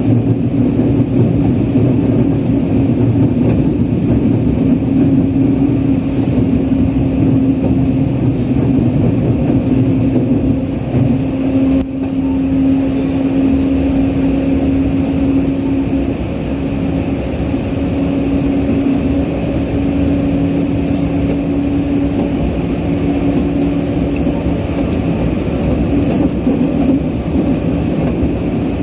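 Interior running sound of a Nagoya Subway Tsurumai Line 3000-series train in the tunnel: a steady, loud rumble of wheels and car body with a low held drone. The drone shifts pitch slightly and the noise dips briefly about a third of the way in.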